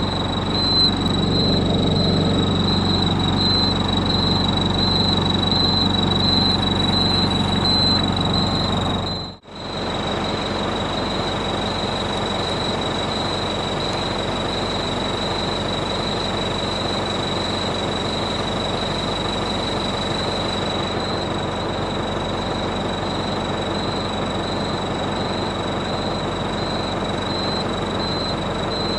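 Truck engine running steadily, heard from inside the cab, with a constant high whine over it. The sound cuts out for an instant about nine seconds in and resumes unchanged.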